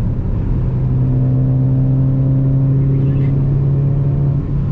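2020 Ford Mustang GT's 5.0 V8 through a Borla S-Type catback, held at steady revs in a lower gear after a downshift, heard from inside the car with the window cracked. The engine tone drops away near the end as the driver lets off.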